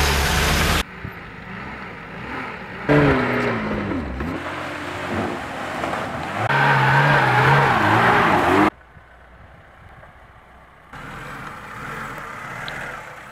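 Lada Niva 4x4 engines revving hard while driving through mud and over rough ground. The engine pitch rises and falls with the throttle. The sound changes abruptly several times as one short clip cuts to the next, with a quieter stretch a little past the middle.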